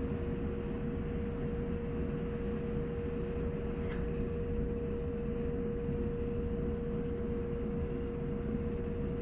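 Snyder General GUA gas furnace firing: a steady rumble from the burners and combustion blower with a constant humming tone, and one faint tick about four seconds in.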